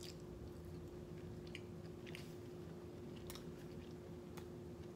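Close-miked chewing of a mouthful of food, with a few soft, sparse mouth clicks. A faint steady hum runs underneath.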